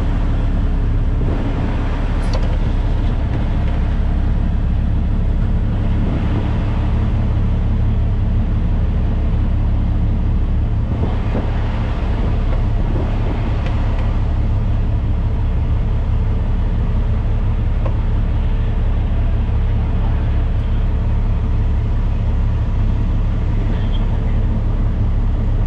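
Semi truck's diesel engine running steadily, a loud, even low drone with no change in pace.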